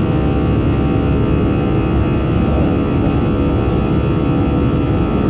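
Airbus A320 cabin noise in flight: the jet engines and airflow running steadily, an even rumble with several steady tones through it.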